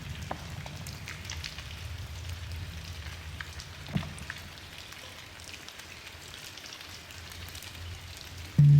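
Steady rain falling, with scattered drops ticking. Right at the end a low handpan note is struck sharply and starts to ring.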